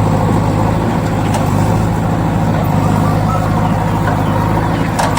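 Truck engine running steadily at an even, unchanging pitch, with a light click near the end.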